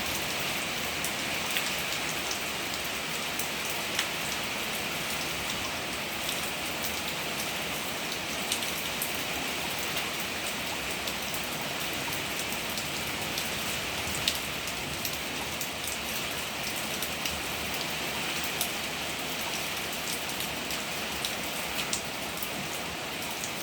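Steady rain falling, a continuous hiss with scattered sharper ticks of single drops striking a hard surface.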